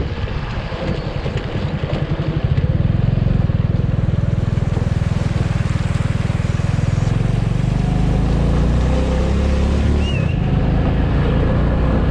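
Motorcycle engine running under way, with wind and road noise; the engine grows louder about two seconds in and then holds steady.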